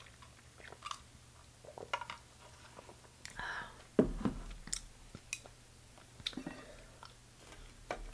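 Close-miked chewing and small mouth clicks. About four seconds in there is a sharp knock as a plastic cup is set down on the table, the loudest sound here.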